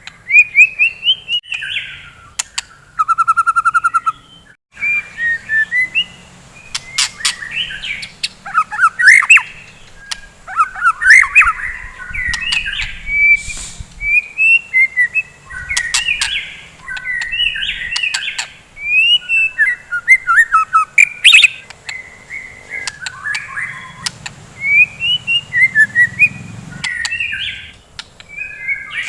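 White-rumped shama (murai batu) singing a fast, varied song in quick phrases of whistles, chirps, sharp clicks and a buzzy trill, with short breaks between phrases.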